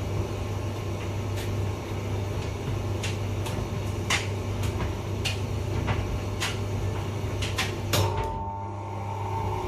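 Hotpoint vented tumble dryer running: a steady hum from the motor and turning drum, with scattered clicks and taps from the tumbling load. Near the end comes a louder click, after which the hum gives way to a steadier, higher note.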